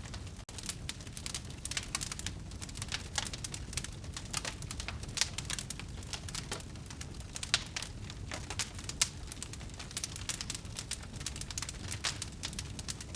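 Wood fire burning in a fireplace, crackling with irregular snaps and a few sharper pops over a low steady rumble of flame.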